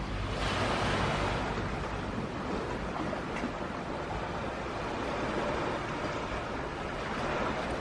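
Small waves washing onto the beach, the wash swelling about half a second in and again near the end, with wind rumbling on the microphone.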